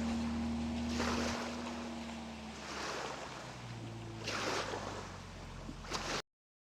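Water sloshing and splashing against the hull of an Argie 15 plywood dinghy under way, in swells every second or so, over a steady low drone that fades out. The sound cuts off abruptly near the end.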